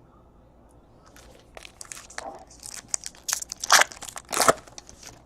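Foil wrapper of a trading-card pack crinkling and tearing as it is ripped open, a quiet start and then a run of crackles, loudest near the end.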